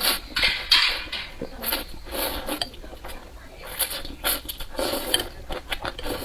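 Close-miked eating sounds: instant noodles being slurped and chewed, a string of short, irregular wet slurps and mouth clicks.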